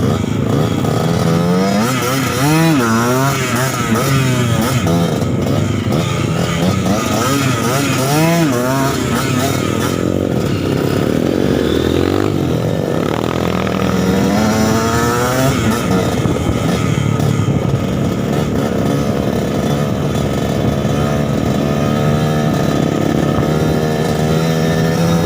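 Suzuki TS 125 dirt bike's two-stroke single-cylinder engine being ridden, its revs rising and falling again and again. The engine note holds steadier in the last several seconds.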